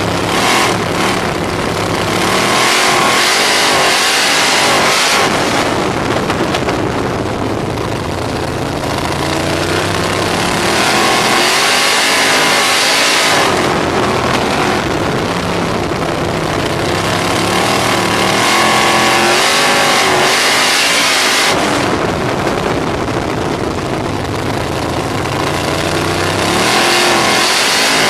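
The 305-cubic-inch V8 of a RaceSaver sprint car heard on board at race speed. The engine note climbs hard, holds, then drops off and picks up again in a cycle about every eight to nine seconds, typical of lapping a short dirt oval: full throttle down the straights, backing off for the turns. Wind rush runs under it throughout.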